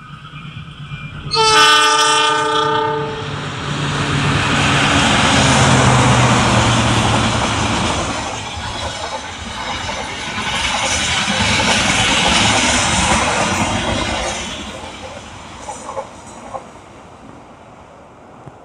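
Train horn blown once, a chord of steady tones lasting about two seconds, followed by a train passing close by: loud rolling rail noise and rumble that swells twice, then fades near the end, with a couple of sharp clacks.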